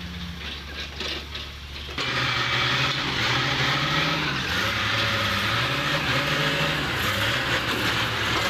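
Engine of heavy earthmoving equipment running, then picking up sharply about two seconds in, its pitch wavering up and down as it works under load.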